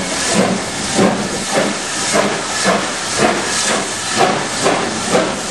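Steam locomotive working, its exhaust chuffing in an even beat of about two a second over a steady hiss of steam.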